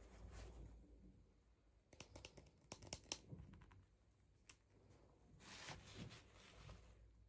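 Faint handling of toy packaging: a quick run of small sharp clicks about two to three seconds in, another click a little later, then a soft rustle near the end.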